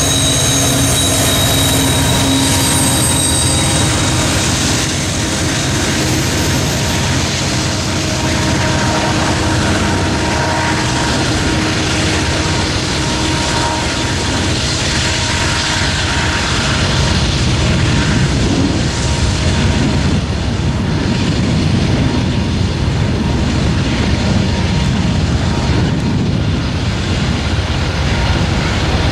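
Freight train noise at a grade crossing: a BNSF diesel locomotive passes with the coal train, its wheels squealing thinly and fading in the first few seconds. A steady rumble of the train runs on after that.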